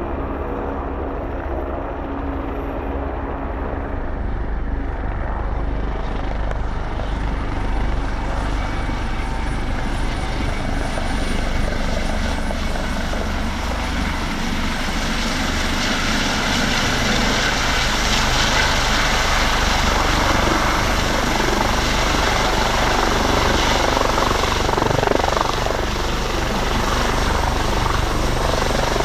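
Helicopter running, its turbine engine and rotor noise steady and growing louder and brighter over the first half.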